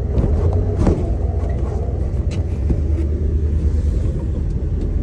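1989 Dodge D100 pickup driving, heard from inside the cab: a steady low engine and road rumble, with a couple of light clicks.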